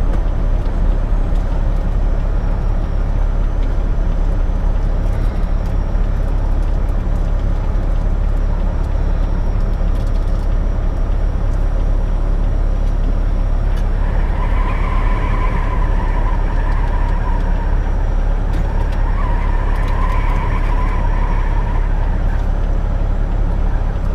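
Steady low rumble of a running semi-truck, with a faint whistling tone that comes in twice in the second half.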